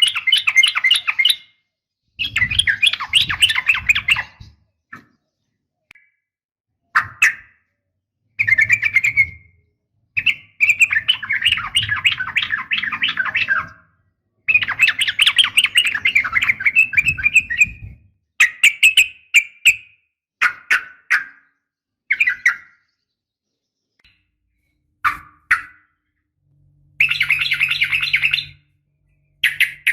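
Yellow-vented bulbul (trucukan) giving long, rapid chattering trills in bursts of one to four seconds, with short single notes and gaps between. This is the long-trill call sold as a female's call to stir male bulbuls into singing.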